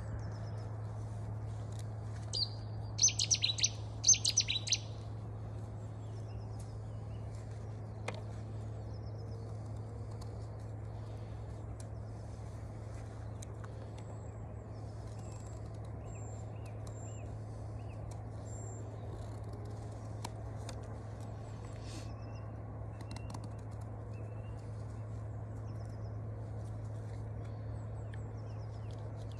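A small bird chirping in a quick run of loud, high calls a few seconds in, with fainter high calls later on. A few faint clicks come from a knife cutting into a green willow twig, over a steady low hum.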